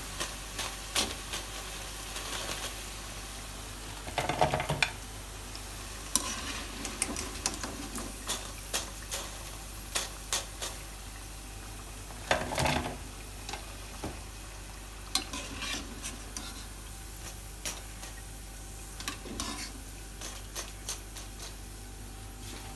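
Pakoras sizzling in hot frying oil, with frequent clicks and scrapes of a metal spoon against the pan as they are turned and lifted out. Two louder bursts of clatter come about four and twelve seconds in.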